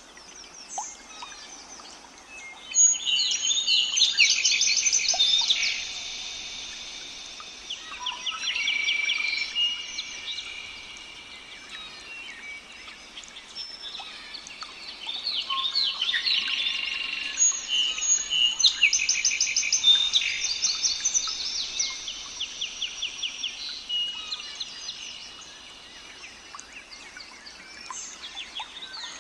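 Several small songbirds singing at once, a dense chorus of rapid trills and repeated high chirps. It swells loud about three seconds in and again past the middle, with quieter singing between.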